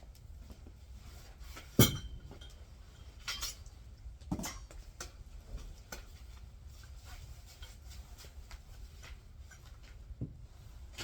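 Axe splitting firewood: one sharp crack about two seconds in, then lighter knocks and clinks of wood a second and a half and two and a half seconds later, and another knock near the end.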